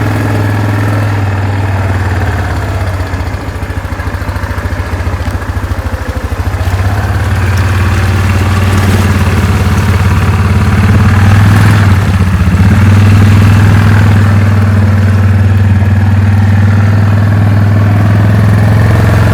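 Engine of an off-road motorbike or ATV running close by as it is ridden, getting louder about halfway through and staying loud.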